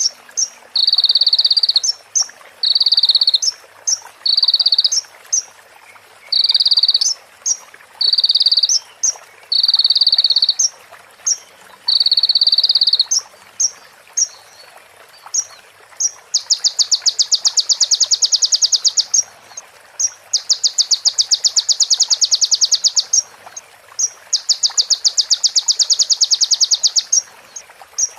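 Konin (scarlet-backed flowerpecker) singing a run of short buzzy trills, about one a second with tiny ticks between. From about halfway it switches to long, very fast rattling trills a few seconds each: its fill-in copied from a female prenjak's call.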